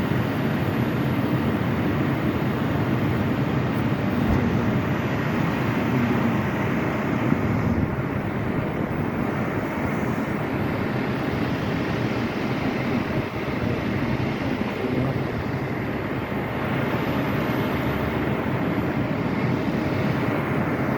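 Steady running noise of a moving vehicle, an even rumble and rush without breaks.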